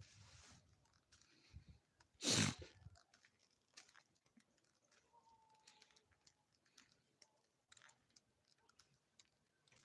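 Faint scattered clicks and ticks, with one short, much louder burst of noise about two seconds in.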